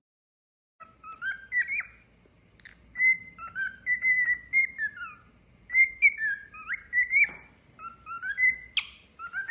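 Pet bird whistling and chirping: a quick run of short whistled notes that slide up and down around one pitch, starting about a second in, with a sharper, louder note near the end.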